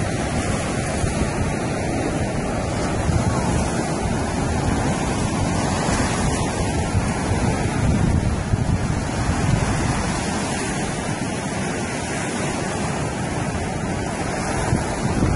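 Surf washing onto a beach, with steady wind buffeting the microphone.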